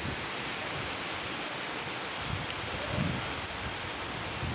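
Heavy rain pouring down in a steady hiss, with gusts of wind rumbling low on the microphone, the strongest about three seconds in.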